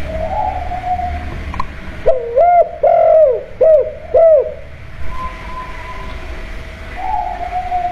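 Spotted dove (tekukur) cooing: a phrase of about five short arched coos between two and four and a half seconds in, with softer drawn-out coos near the start and near the end.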